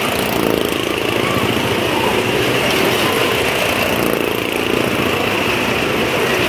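Engines of stunt vehicles riding the wooden wall of a Well of Death, a motorcycle among them, running loud and steady with a wavering engine pitch.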